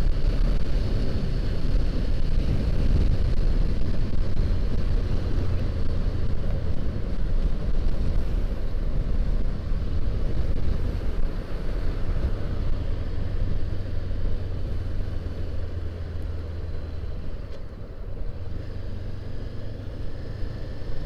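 Honda CBR500R parallel-twin engine running while riding at road speed, with wind and road noise on the microphone. The loudness dips briefly about three-quarters of the way through, then picks up again.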